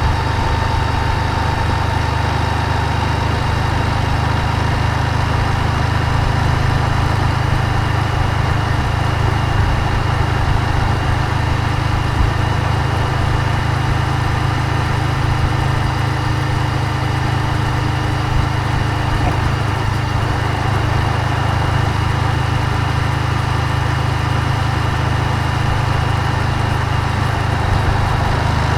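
Moto Guzzi V7's air-cooled transverse V-twin engine running steadily at an even engine speed, with no change in pitch or loudness.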